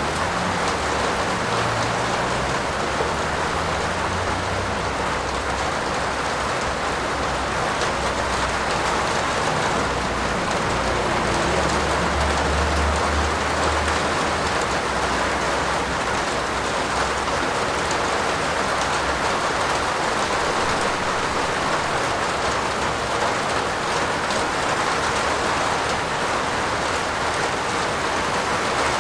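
Steady heavy rain falling on a roof, an even hiss of drops, with a low rumble swelling briefly about halfway through.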